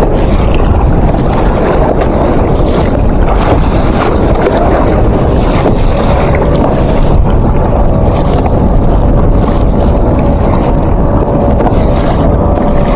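Strong wind buffeting the microphone over a small boat pitching in high waves, with dense rushing noise throughout. A faint steady whine comes in about halfway.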